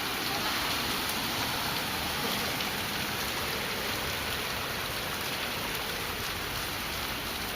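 Heavy rain falling hard: a steady, even hiss of rain.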